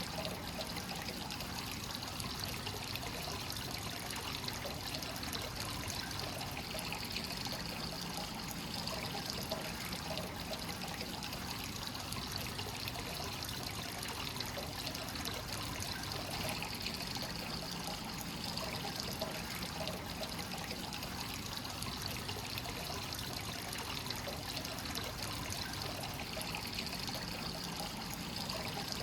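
Hot-spring water pouring steadily into a stone bath, a continuous splashing trickle. The bath is fed free-flowing straight from the source, with no recirculation.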